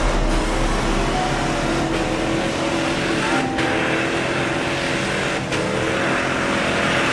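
Jeep Grand Cherokee's 4.7-litre V8 engine working hard to push through deep snow, its revs climbing and dropping back several times, over a steady hiss.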